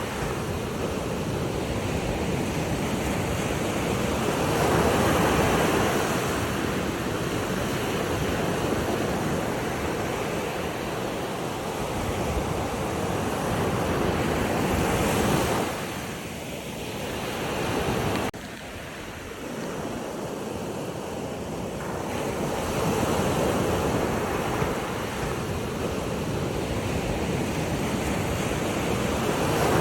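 Ocean waves breaking and washing on the shore, swelling and fading every several seconds, with wind on the microphone. The sound drops suddenly a little past halfway, then builds again.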